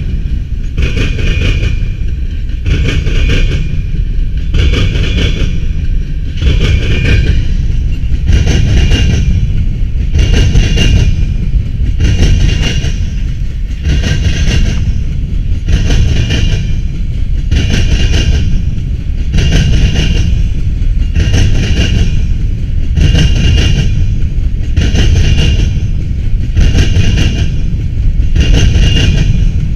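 Norfolk Southern freight train passing, its diesel locomotives giving way to a long string of covered hopper cars. Steady heavy rumble with a regular rhythmic clatter of the cars' wheels.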